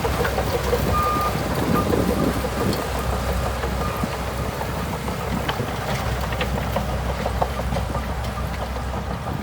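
Heavy diesel earthmoving machine, a Shantui DH17C2 bulldozer, running steadily under work, with a short high beep about a second in.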